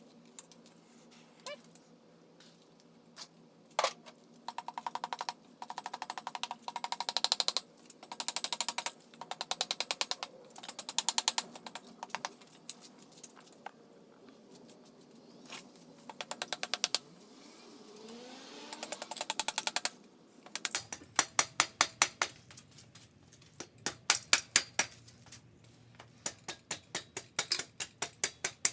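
Ratchet wrench clicking in repeated short runs of rapid, even clicks, as fasteners are worked loose during teardown of a Volkswagen air-cooled 1600 engine.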